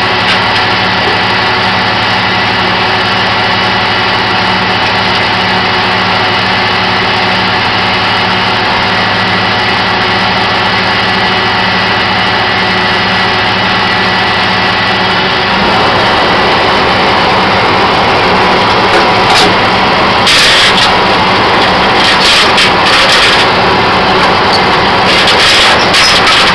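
A flatbed tow truck's engine idling steadily. About fifteen seconds in it picks up to a louder, rougher run. Short metallic clanks come in over the last several seconds.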